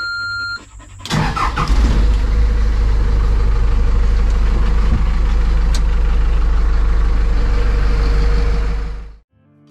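A vehicle engine starts about a second in and then runs steadily, loud and close, until it drops away near the end. A steady electronic tone, like a vehicle's warning chime, sounds briefly before it.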